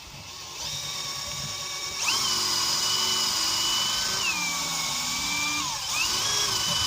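Electric drill whining as it runs under load, used to clean up a part. It picks up speed about two seconds in, slows around four and a half seconds, and speeds up again near the end.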